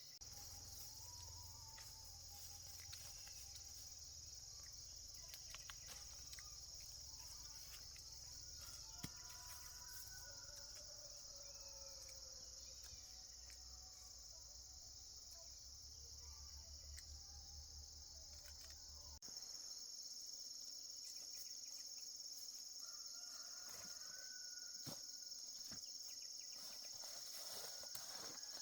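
Faint, steady, high-pitched chorus of insects singing, with the pitch of the chorus stepping slightly higher about two-thirds of the way through.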